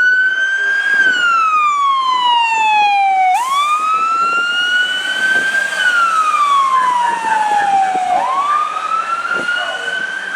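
Fire engine siren on wail: a loud tone that rises and falls slowly, each cycle taking about five seconds.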